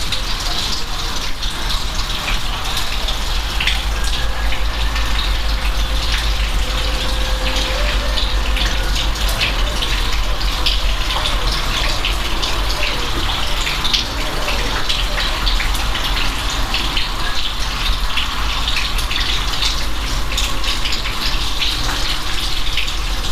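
Steady rain falling, a continuous hiss with many small drop ticks and splashes over it.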